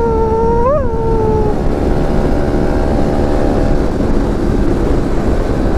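Motorcycle riding with heavy wind on the microphone and a steady engine rumble. In the first second and a half a person's voice holds one long howling call that lifts briefly in pitch before it stops.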